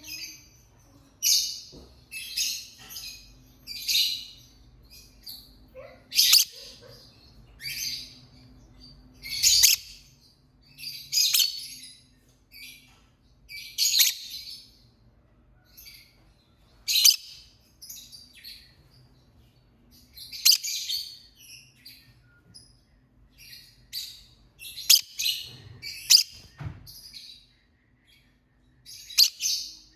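Lovebird chirping: short bursts of shrill, high-pitched chirps, repeated every second or two.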